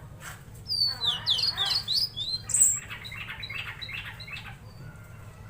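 A songbird (tledekan laut) singing: a quick run of sharp, downward-sliding whistles, then a fast buzzy chatter that stops a second before the end. A steady low hum runs underneath.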